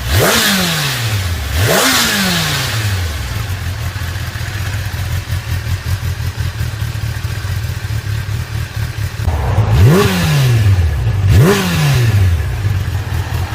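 Kawasaki Ninja ZX-10R inline-four with a Yoshimura R-11Sq Cyclone slip-on muffler, blipped from idle: two quick revs at the start, a steady idle, then two more quick revs about two-thirds in. Each rev climbs sharply and falls back more slowly.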